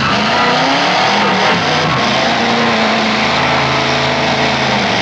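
Demolition derby car engines revving and running as the cars drive through the dirt arena. The engine pitch rises and falls at first, then holds a steady note from about three seconds in.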